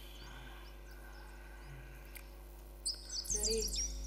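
Small birds chirping faintly in the background, with short high chirps that grow busier near the end. A brief low voice-like sound comes in about three seconds in.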